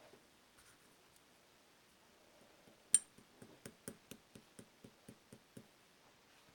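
Clear slime being pressed and poked: one sharp click about three seconds in, then a run of small pops and clicks, about four a second, for some two and a half seconds.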